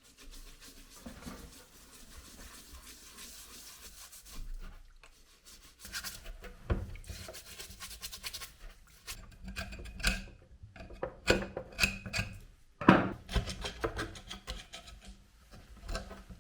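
Hand rubbing and scraping, like sanding or filing a part, steady at first. From about six seconds in it turns into irregular scrapes broken by several sharp knocks.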